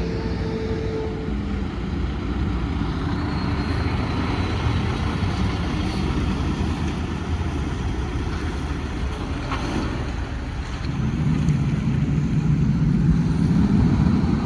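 Truck engine running steadily, growing louder from about eleven seconds in.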